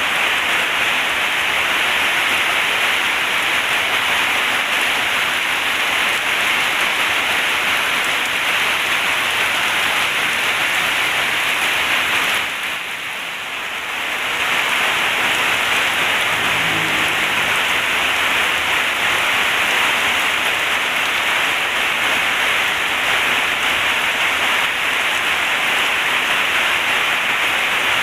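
Heavy rain pouring steadily onto a corrugated zinc roof, a dense hiss that dips briefly about halfway through.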